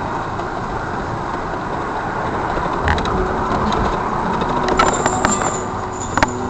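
Car driving in traffic, with steady engine and road noise heard from inside the cabin and a few short clicks in the second half.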